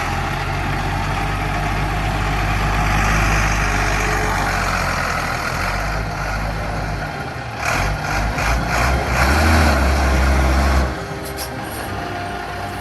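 A vehicle engine running under load, with a steady low drone. It pulls harder and louder from about eight seconds in, then eases off suddenly near eleven seconds.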